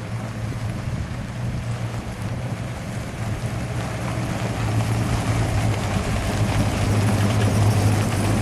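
An engine running steadily with a low hum, getting louder about halfway through.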